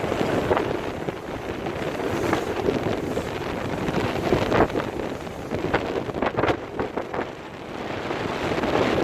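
Wind buffeting the microphone on an open cruise-boat deck, a rough rushing noise with many short gusts.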